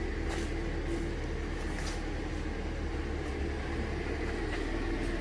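Harley-Davidson Electra Glide V-twin engine idling steadily after cranking, with a few light clicks in the first two seconds.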